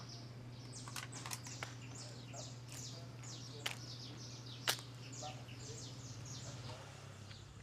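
Birds chirping: many quick high calls sweeping downward, several a second, over a steady low hum. A few sharp clicks, the loudest about halfway through.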